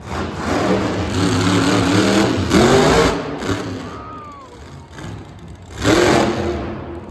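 Monster truck engine revving hard in bursts, its pitch climbing for about three seconds, easing off, then a fresh burst of throttle about six seconds in.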